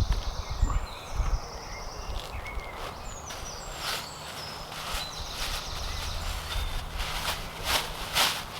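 Woodland birds singing in short high phrases, with footsteps and rustling near the microphone, loudest around four seconds in and again near the end, and a few low thumps early on.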